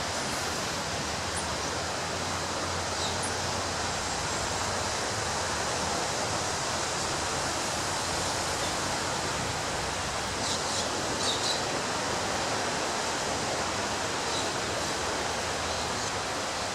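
Ocean surf washing steadily onto a beach, an even rushing noise with no single wave standing out. A few short, faint high chirps come through, most of them about ten seconds in.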